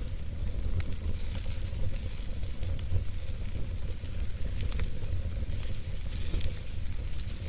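Wood fire burning in a fireplace: a steady low rumble and hiss with scattered crackles and a few sharper pops.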